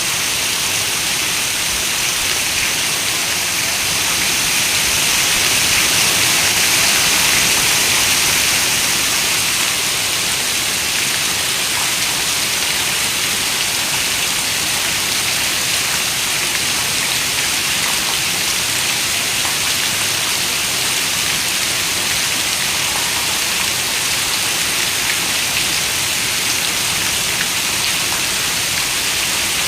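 Steady heavy rain, a dense even hiss of many drops, swelling slightly for a few seconds near the start.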